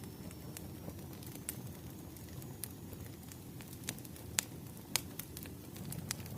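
Crackling wood fire: a steady low rumble with irregular sharp pops and snaps, two of them louder about four and five seconds in.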